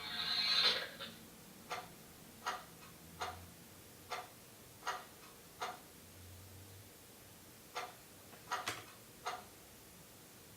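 A short hissy burst at the start, then a series of brief sharp ticks. The first six come about one every three-quarters of a second, and after a pause of about two seconds a few more come irregularly.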